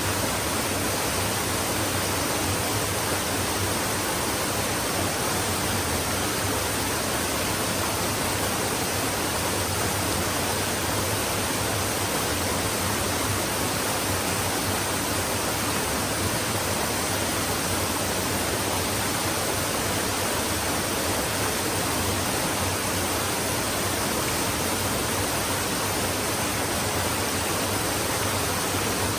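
Stream water flowing steadily, an even unbroken rush with no separate splashes or changes.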